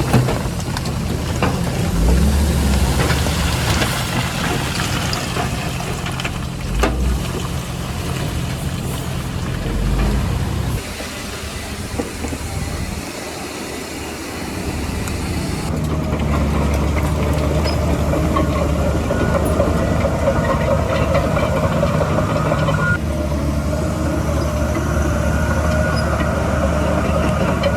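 Heavy diesel construction machinery running under load, engine notes steady for the first ten seconds or so, dropping away for a few seconds about halfway, then picking up again and running steadily.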